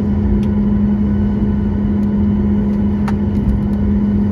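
Cabin noise inside a Boeing 737 MAX: a steady drone from its CFM LEAP-1B engines and airflow, with a constant hum tone over a low rumble. A couple of faint clicks or rattles come through, about half a second in and about three seconds in.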